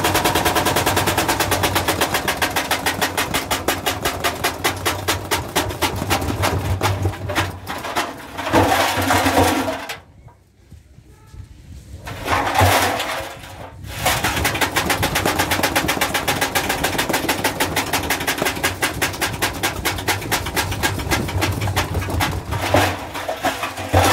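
Washing machine being run to destruction, knocking and rattling rapidly and steadily, many knocks a second. The knocking breaks off for a few seconds about ten seconds in, then starts again.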